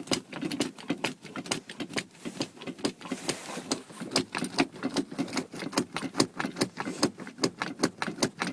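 A bunch of keys jangling and clicking in rapid, irregular strokes while the truck's engine is still not running.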